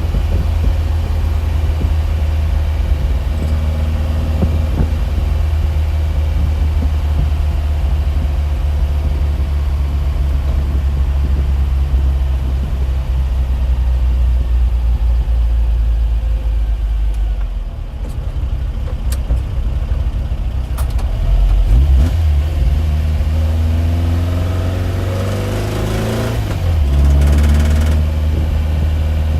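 An engine running with a steady low hum. About three-quarters of the way through, its pitch rises for a few seconds, then falls back abruptly.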